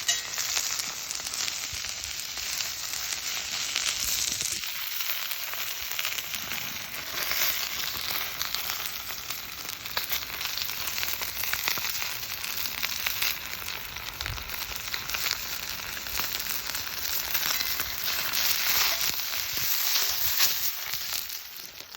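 Chicken sizzling and frying in a Turk wrought-iron frying pan: a steady hiss with fine, irregular crackles throughout.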